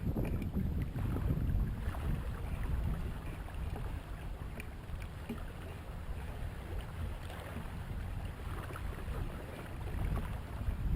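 Wind rumbling on the microphone over water washing along a kayak under sail.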